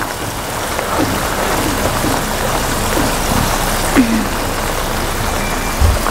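Steady rain falling, with a few short scrapes of a spatula stirring beans in a metal pan and a brief low thump near the end.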